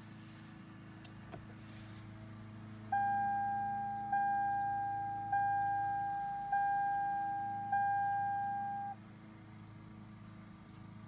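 2007 Toyota Camry Hybrid's dashboard chime sounding five times, a single beep-tone repeated about every 1.2 seconds, each fading slightly, starting about three seconds in. The chime comes as the power button is pressed together with a dash button in an attempt to reset the maintenance-required light.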